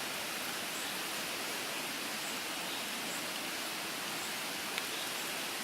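Steady outdoor hiss like rushing water, even and unchanging, with one faint click about five seconds in.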